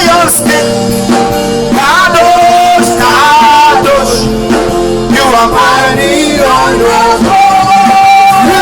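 Loud church worship music: sustained keyboard chords with voices singing over them.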